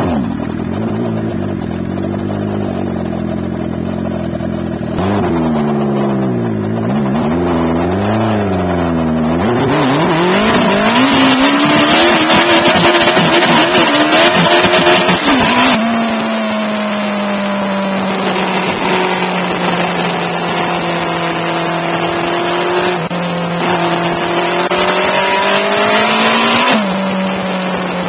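Turbocharged Suzuki Hayabusa inline-four motorcycle engine heard from the rider's seat. It idles just after starting, is blipped a few times, then pulls hard with the pitch climbing and a rush of wind noise. It then holds a long steady note that slowly sags, rises briefly near the end and drops suddenly.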